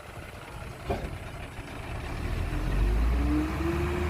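Heavy earthmoving vehicle's diesel engine revving up under load, rising in pitch and loudness from about two seconds in and then holding steady. A single knock sounds about a second in.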